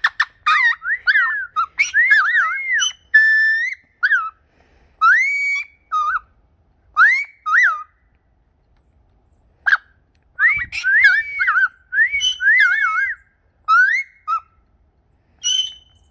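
A series of clear whistled notes that glide up and down in short arched phrases, with pauses between them and one longer gap about halfway through.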